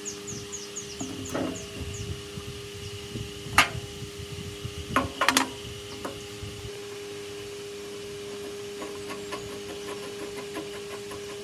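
A steady hum with low handling rumble, broken by a sharp knock and then a quick cluster of two or three knocks around the middle.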